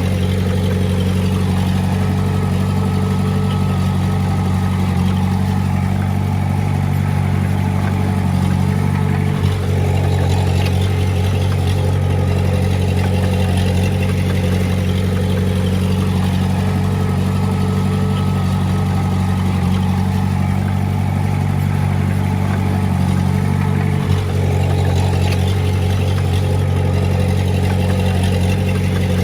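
Komatsu D20A bulldozer's diesel engine running steadily while working, its note shifting slightly, with a brief dip and light knock about nine seconds in and again near twenty-four seconds.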